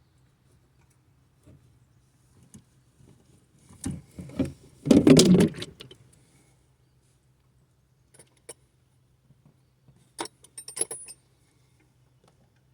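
Metal hand tools and hardware clattering and clinking: a loud cluster of rattling knocks about four to six seconds in, then a few sharp, ringing metallic clinks near the end.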